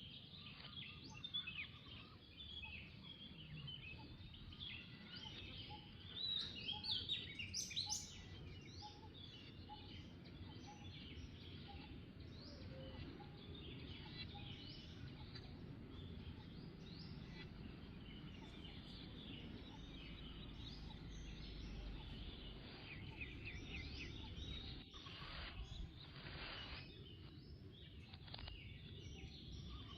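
Birds chirping and calling over a steady low background rumble, with a louder flurry of chirps about six to eight seconds in.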